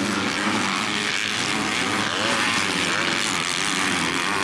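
250 cc grasstrack racing motorcycle engines running hard, a dense steady drone with the pitch rising and falling briefly as the bikes are revved.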